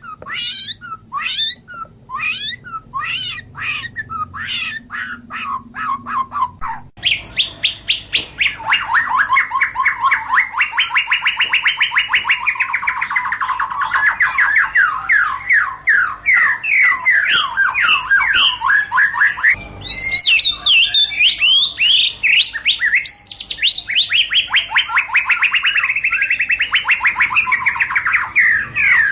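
White-rumped shama singing: a series of separate, well-spaced notes for about the first seven seconds, then an abrupt switch to a long, very rapid, unbroken run of notes that sweep up and down in pitch, carrying on to the end.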